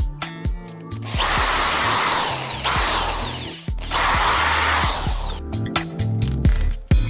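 Small power tool run twice, about two and a half seconds and then about a second and a half, with a short stop between, over background music with a steady beat.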